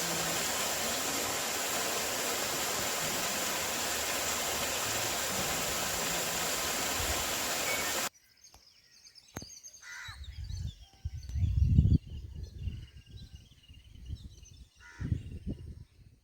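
Steady rushing of a waterfall that cuts off suddenly about halfway through, followed by faint bird chirps over irregular low rumbles.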